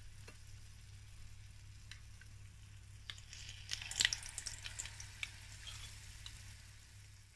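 Batter fritters sizzling as they deep-fry in sunflower oil in a frying pan. About four seconds in, a cluster of crackles and light metal clicks comes as another spoonful of batter is dropped into the hot oil.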